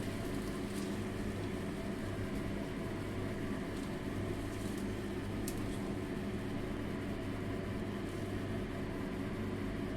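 Steady machine hum, with a faint click about five and a half seconds in.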